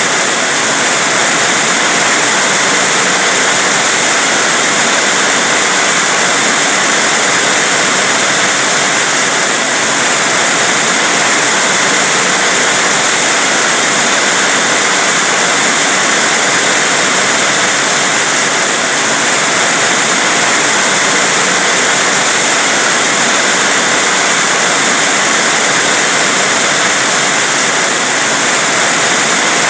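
Heavy rain falling steadily, a dense, even hiss with no breaks or distinct drops.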